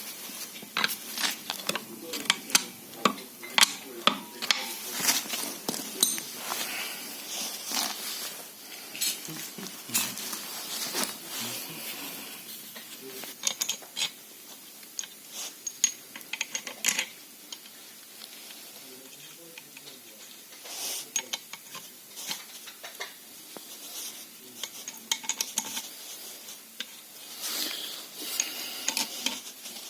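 Metal tools and brake caliper parts clinking and clattering against each other in irregular sharp clicks, busiest in the first half and again near the end.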